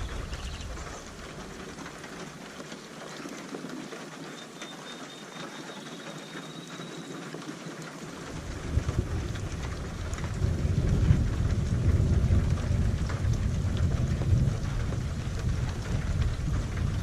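Steady rain with rolling thunder. A low rumble fades out in the first second or two, and a long roll of thunder builds from about halfway through, loudest a little later, over the unbroken patter of rain.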